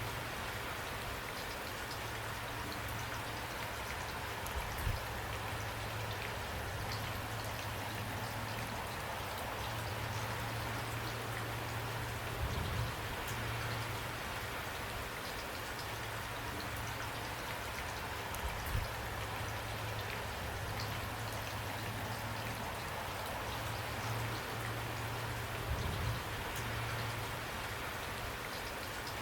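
Steady rain falling, an even hiss with scattered individual drop ticks. A low hum runs underneath, and a few brief low thumps stand out about 5, 12, 19 and 26 seconds in.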